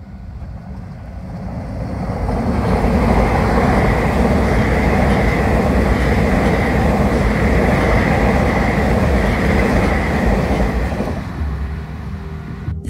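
A train passing close by. Its noise builds over the first few seconds, holds steady with a faint high whine over it, and dies away about eleven seconds in.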